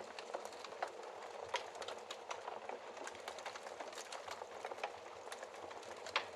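Wood fire crackling in a fireplace: a steady hiss under many irregular small pops and snaps, with a louder sharp pop near the end.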